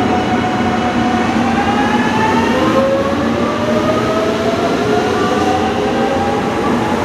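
JR Kyushu 883 series 'Sonic' electric train accelerating away, its inverter and traction motors giving a whine that climbs steadily in pitch, drops back about three seconds in, and climbs again.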